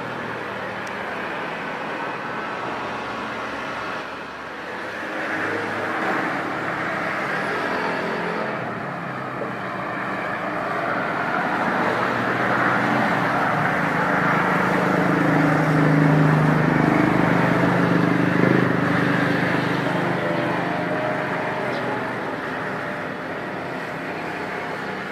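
Jet airliner's engines roaring as it passes close by, swelling slowly to a peak a little past the middle and then fading away.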